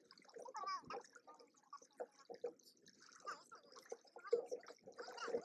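Lake water gurgling and splashing against a Hobie Cat 16 catamaran's hulls, in quick irregular bursts.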